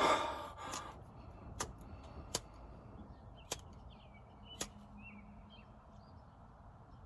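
A deep breath out, then four sharp clicks about a second apart over a low hum, with faint bird-like chirps in the middle.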